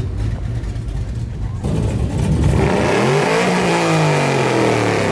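Car engine pulling out hard: a low rumble, then about halfway through the engine's pitch climbs under acceleration and slides back down as the car drives away.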